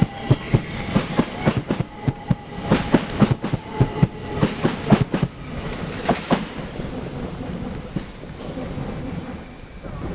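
Passing train's wheels clattering over rail joints and points: rapid, loud clicks over a rumble for about six seconds, then thinning out as the train moves away.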